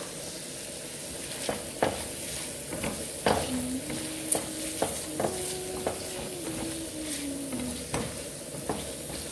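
Pieces of liver sizzling in butter and garlic in a nonstick frying pan, stirred and turned with a spatula that knocks against the pan several times.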